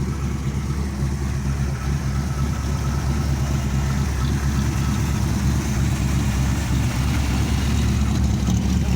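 Engine of a 1958 car idling steadily, growing gradually louder.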